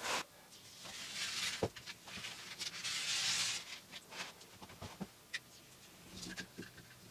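Light handling noises: scattered small knocks, clicks and rustles, with two short stretches of hiss about a second in and about three seconds in.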